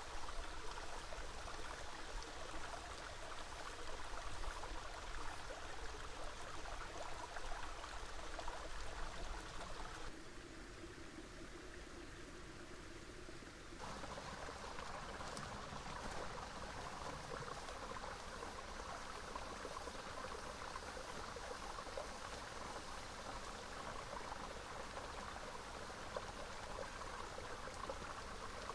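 Small river flowing, a steady rushing trickle of water. It turns quieter and duller for a few seconds about ten seconds in, then comes back.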